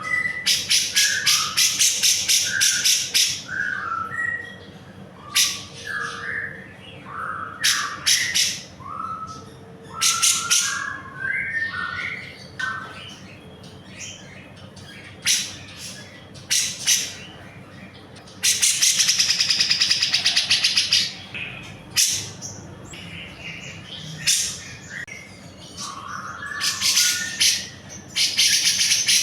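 Grey-cheeked bulbul (cucak jenggot) singing loudly: short clear notes mixed with fast, high, scratchy chattering, and one long unbroken trill of about two and a half seconds two-thirds of the way through.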